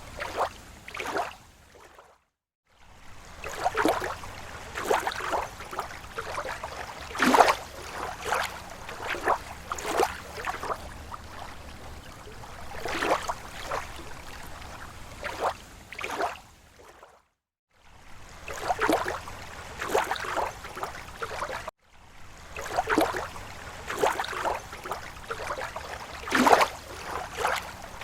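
Small slow waves lapping against a lake shore: irregular splashes and gurgles of uneven strength. The sound cuts out completely for under a second twice, and once more very briefly.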